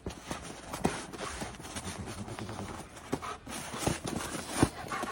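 Irregular knocks and scuffling taps over a noisy background, with the loudest thump near the end.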